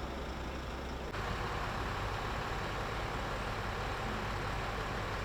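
Steady running of idling vehicle engines, which jumps abruptly louder and brighter about a second in.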